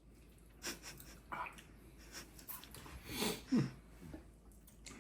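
Mouth sounds from eating fiery Buldak instant noodles: short breaths and smacks, a loud hissing intake of air about three seconds in, then a short falling "mm".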